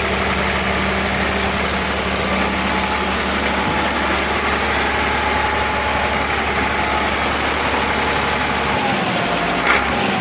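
Leyland 400 diesel engine idling steadily on an open stand. About nine seconds in its low hum changes, and a short sharp click follows.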